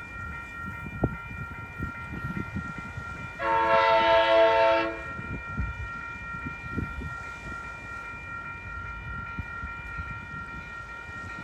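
Amtrak Capitol Corridor passenger train's horn sounding one steady blast of about a second and a half, about three and a half seconds in, as the train approaches. Under it is a steady low rumble.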